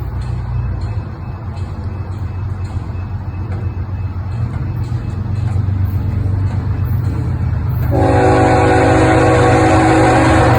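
A train approaching, its low engine rumble growing gradually louder, then a multi-tone train horn sounding a chord about eight seconds in and held on.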